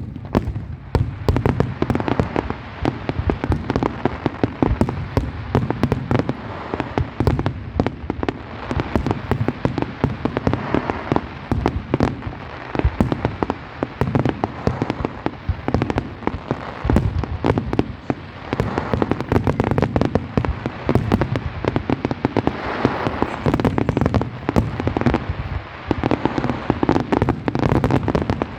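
Fireworks display: a continuous barrage of booming shell bursts and crackling, with explosions following one another many times a second throughout.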